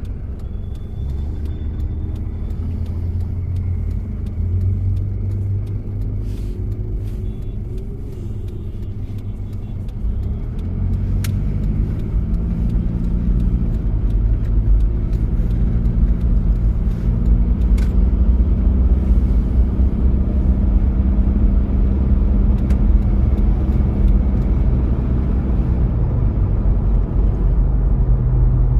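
1993 Toyota Prado's diesel engine running under way. The engine note gets louder and rises from about ten seconds in, then drops back near the end. Two short clicks are heard in the middle.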